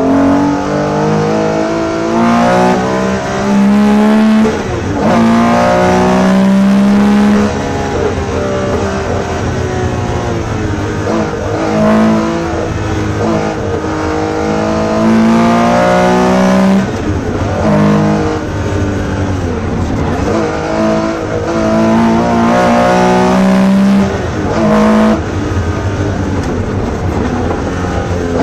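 Porsche 911 RSR's flat-six engine heard from inside the cabin, accelerating and changing gear again and again. The pitch climbs under full throttle, then drops at each shift or lift for a corner.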